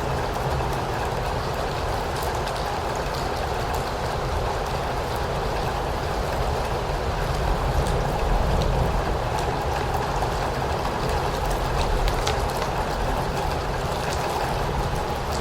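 Steady rain, an even hiss with scattered drop ticks, over a low rumble that swells slightly twice.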